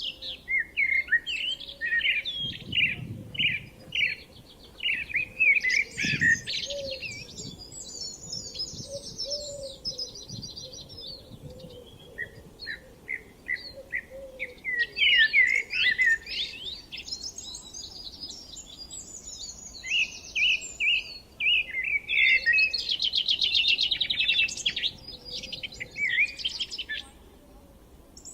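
Songbirds singing: phrase after phrase of quick chirps and fast trills, several overlapping, with a short lull about eleven seconds in.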